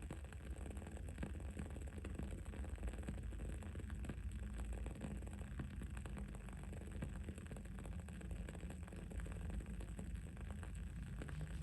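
Wooden candle wick burning with a continuous stream of small, irregular crackles over a steady low background hum.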